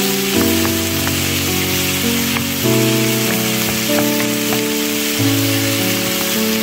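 Garlic scapes sizzling in hot oil in a frying pan as they are stir-fried and turned with a wooden spatula, a steady frying hiss. Background music of sustained chords changing about once a second plays over it.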